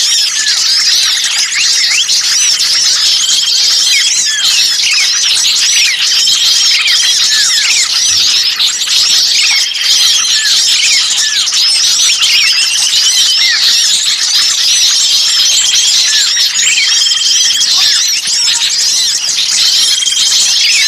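Dense, noisy chorus of many small songbirds chirping and trilling over one another, with a short level whistle repeating about every three seconds. It is a bird-lure recording of excited small birds, played to draw wild birds in.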